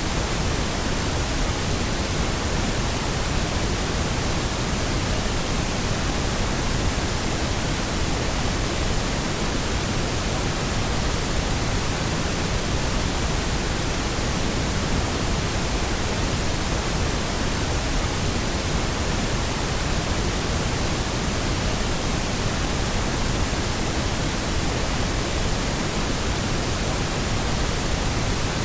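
Steady pink noise: an even, unchanging hiss across all pitches, with no tones or events.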